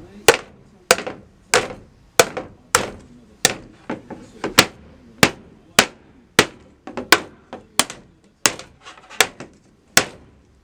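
A hammer striking a PVC storage holder over and over, about one and a half blows a second. Each blow is a sharp crack with a short ring after it.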